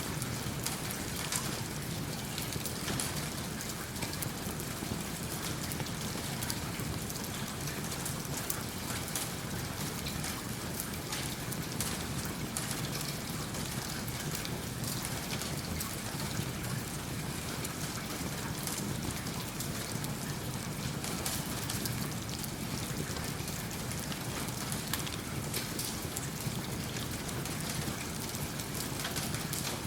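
Steady rain falling, a dense patter of drops, with a wood fire crackling in a fireplace.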